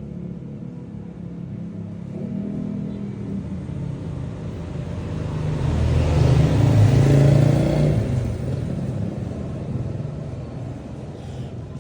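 Street traffic: a steady low engine hum, with a motor vehicle passing close by about halfway through, its noise rising to a peak and then fading.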